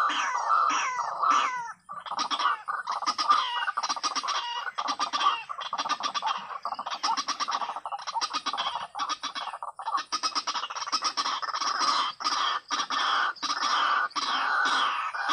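White-breasted waterhen (ruak-ruak) calling loudly: a dense, continuous run of harsh, rapidly repeated croaking notes, briefly pausing about two seconds in.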